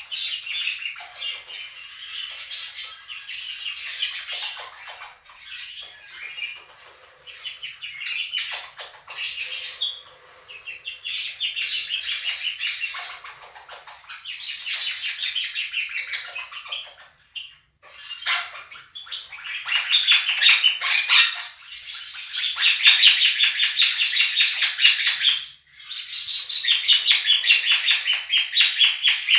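Two monk (Quaker) parakeets calling loudly and rapidly over the chatter of a flock of budgerigars played back from a recording, in bouts that grow loudest in the second half.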